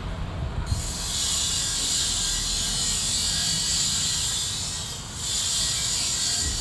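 A steady high hiss that starts about a second in, drops out briefly about five seconds in and comes back, over a low rumble.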